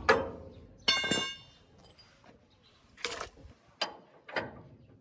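Metal clicks and knocks: a ringing metallic clink about a second in, then three short, sharp knocks in the second half.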